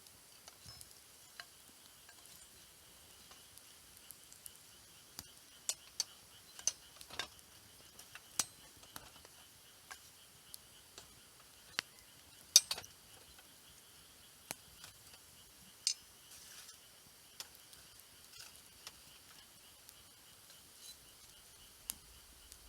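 Wood campfire crackling: irregular sharp pops and snaps over a quiet background, a sharper cluster of pops about twelve seconds in.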